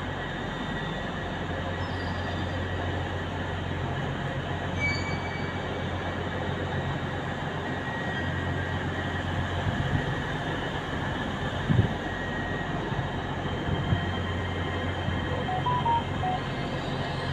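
Trains running in a large railway station: a steady low hum, with faint thin high squeals and a sharp knock about two-thirds of the way through.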